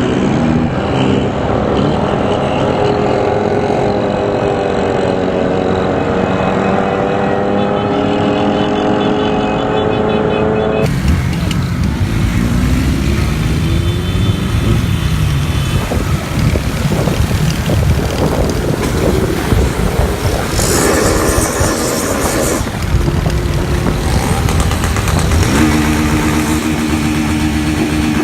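Motorcycle engines running and revving, with rising and falling pitch; the sound changes abruptly about eleven seconds in to a rougher, noisier mix.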